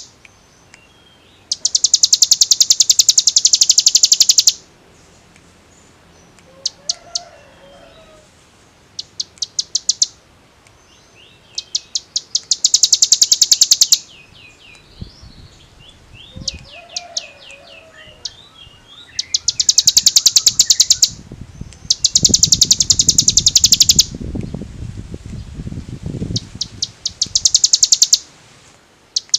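Ciblek gunung (a prinia) singing in rapid, drilling trills ('ngebren'): repeated high bursts of very fast, evenly spaced notes, each lasting one to three seconds, with softer twittering between. A low rumble runs under the song about two-thirds of the way through.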